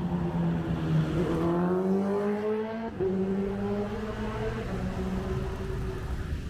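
A motor vehicle's engine accelerating nearby, its pitch rising for about three seconds, then dropping back at a gear change and pulling on steadily.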